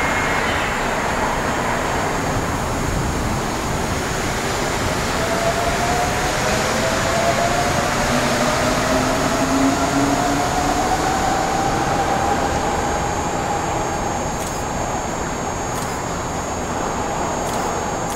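Osaka Monorail 2000 series train, a rubber-tyred straddle-beam monorail, running with a steady rumble of wheels and equipment. Its motor whine rises slowly in pitch, the sign of the train picking up speed.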